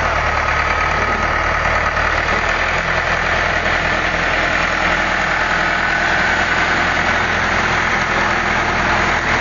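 Vehicle engine running loud and steady at a constant pitch, with a dense rushing noise over it, while working to pull a tractor out of deep mud.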